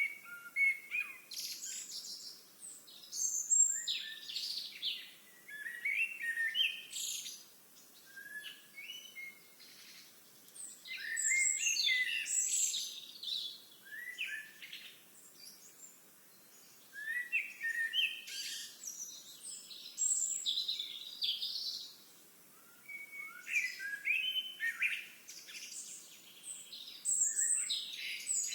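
A songbird singing, about four long phrases of quick chirps, trills and warbles, each lasting several seconds, with short pauses between them.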